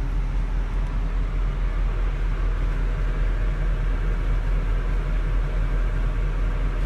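Steady low rumble of a car driving along, engine and road noise heard without change throughout.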